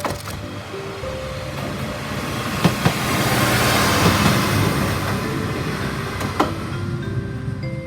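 KiHa 40 diesel railcar passing by, its running noise swelling and fading, with a few sharp clacks of wheels over rail joints.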